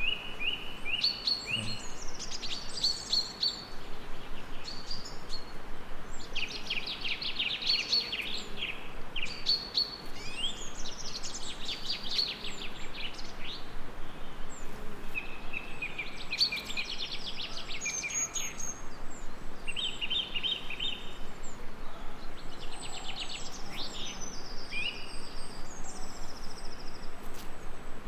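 Songbirds singing: overlapping quick trills and chirped phrases, one after another, over a steady background hiss.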